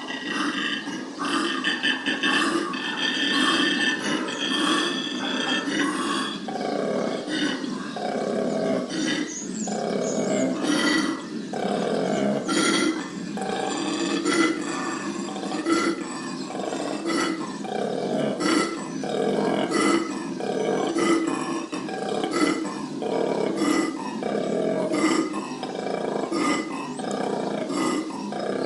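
Male koala bellowing: a long run of deep, rasping calls that pulse about once a second.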